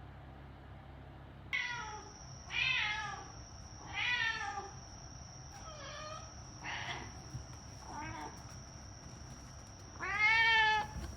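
A domestic cat meowing over and over, about seven separate calls, each falling in pitch; the last, near the end, is the longest and loudest.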